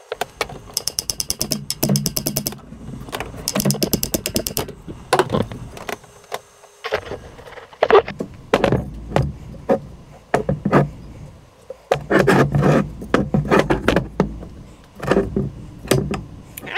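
Hand ratchet clicking in quick bursts as it is swung back and forth on bolts, with irregular knocks and clanks of tools against metal in between.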